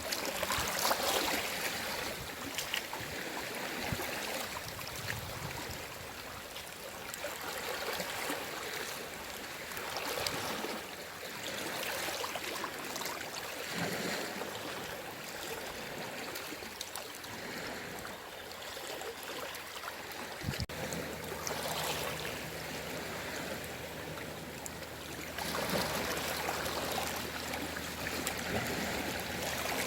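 Gentle sea waves washing in, swelling and fading every few seconds. A low steady hum joins about two-thirds of the way through.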